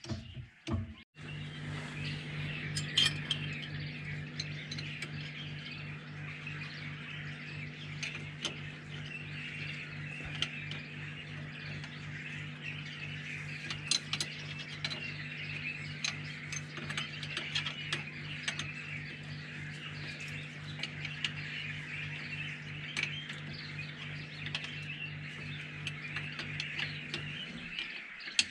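A steady low hum with scattered clicks of hand-tool work on the Jeep's loose pinion nut, over birds chirping. The hum starts about a second in and stops just before the end.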